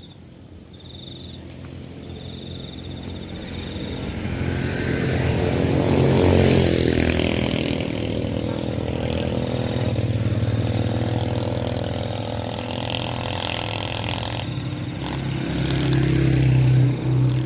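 A motor vehicle engine that grows louder over about six seconds, drops in pitch as it passes, then keeps running steadily and swells again near the end. A high, steady insect-like trill sounds in the first few seconds.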